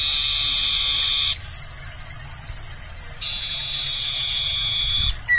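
Barn owl screeching: two long, harsh hissing screeches of about two seconds each. The first stops just over a second in, and the second starts about three seconds in. A short falling whistle comes at the very end.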